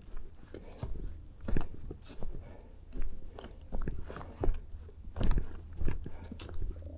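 Footsteps crunching over forest ground while walking, about one or two steps a second, over a steady low rumble.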